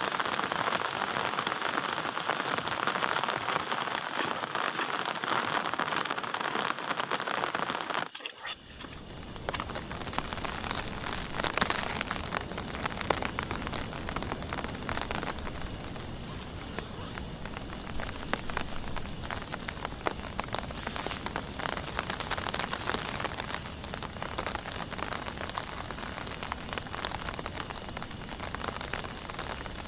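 Heavy rain falling steadily. About eight seconds in, the sound switches abruptly to a slightly quieter patter full of separate drop ticks, rain striking a surface close by.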